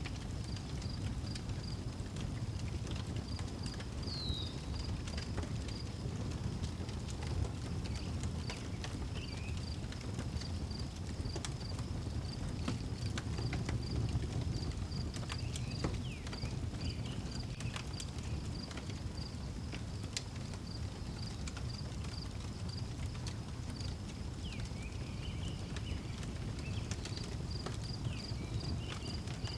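Outdoor wood fire crackling with scattered sharp pops over a low steady rumble. A cricket chirps steadily at a high pitch, about two chirps a second, and a few short bird calls come through, one near the start.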